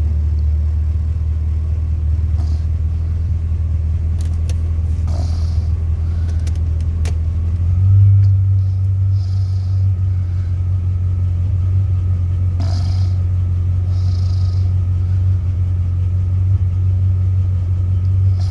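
Chevrolet 350 (5.7 L) small-block V8 idling steadily in park, with a short swell in level and pitch about eight seconds in. A few light clicks and rustles sit over the idle.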